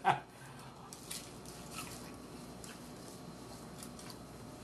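Faint chewing of crunchy hard taco shells, oven-baked until crisp, with a few small crunches and clicks scattered through.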